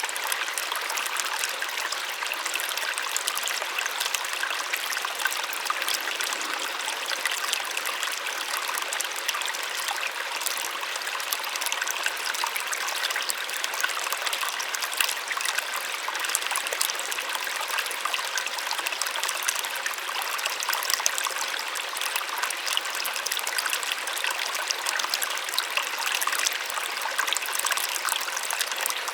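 Small waterfall splashing steadily, a delicate roar of falling water: an even, light rush with no deep rumble.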